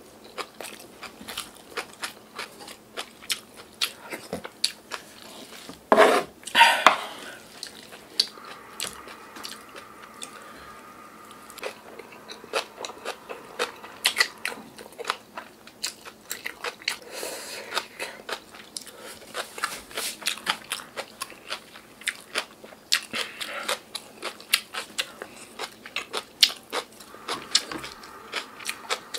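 Close-up eating sounds: wet chewing and crunching of rice mixed with crunchy young radish kimchi (yeolmu kimchi), with many small clicks and a louder burst about six seconds in. A metal spoon knocks against the stone stew pot near the end.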